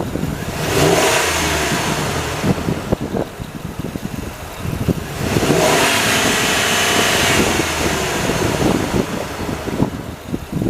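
Chevrolet 2500 4x4 pickup engine running, revved up twice from idle, each rise lasting about two seconds before dropping back to idle.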